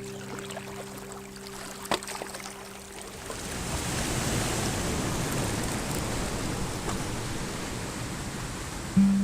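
Rushing water of a river running over rocks, an even hiss that swells in about three seconds in and holds steady.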